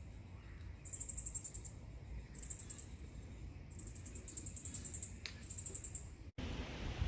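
Small bird giving very high-pitched, rapid trilled chirps in short bursts, about five series, over low outdoor rumble. About six seconds in the sound breaks off briefly and turns into a steady hiss.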